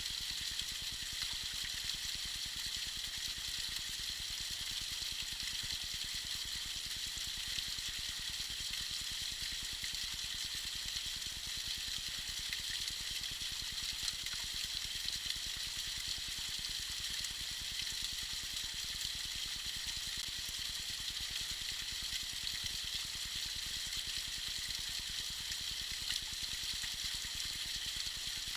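Tiny icy waterfall splashing steadily, a constant high hiss of falling water.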